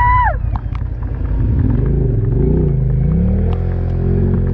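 ATV engine running under way, its pitch dipping and rising twice as the throttle is worked, then holding steady at a higher speed. A brief shout at the very start.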